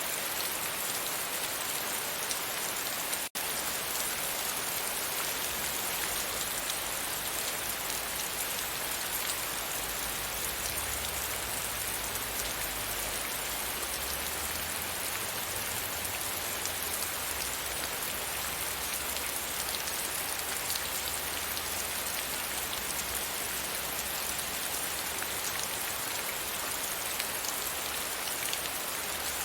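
Steady rain, an even hiss of falling drops with no pauses. It cuts out for an instant about three seconds in, and a faint low rumble sits beneath it through the middle stretch.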